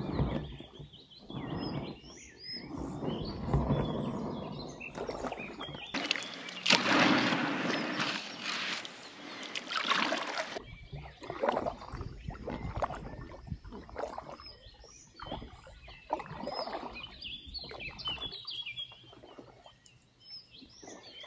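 Paddle strokes splashing in lake water as a packraft is paddled, coming as uneven surges, with small birds chirping.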